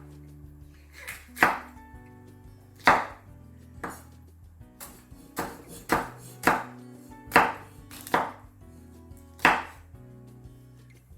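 Kitchen knife chopping green and red peppers on a cutting board: sharp, irregularly spaced strikes, about one a second.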